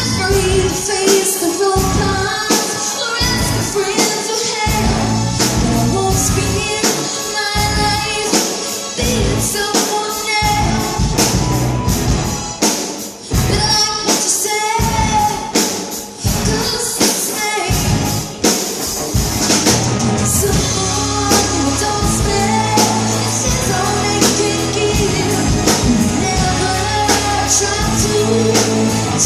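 Live band playing a pop-country original song, with a woman singing over a steady drum beat.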